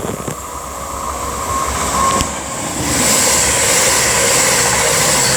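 CrossCountry Class 221 Super Voyager diesel multiple unit passing through the station: the noise of its engines and wheels builds over the first three seconds and then holds loud and steady.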